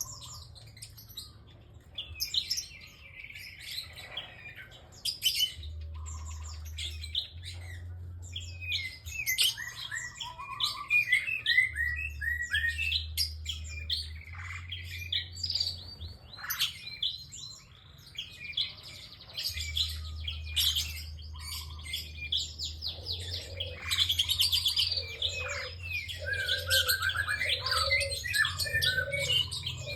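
Prinia (prenjak) singing in a long, busy run of sharp chirps, trills and fast rising and falling notes. A lower note repeats about once a second near the end.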